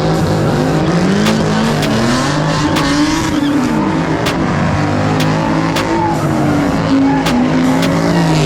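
Car engines revving up and down repeatedly over a noise of squealing tires, the engine pitches rising and falling and overlapping. Sharp clicks and snaps are scattered through it.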